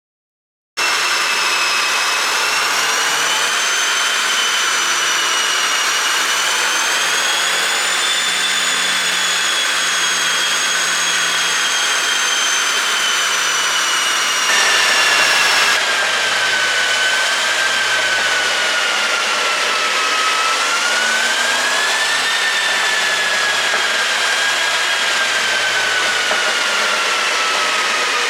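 2017 Mercedes-Benz W213 E200's engine running steadily with a loud high-pitched whine that drifts slowly in pitch. The whine shifts abruptly lower about halfway through, and no distinct exhaust pops stand out.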